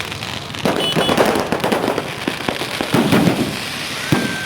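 Fireworks going off: rapid clusters of crackling pops starting about half a second in, with a single sharp bang near the end.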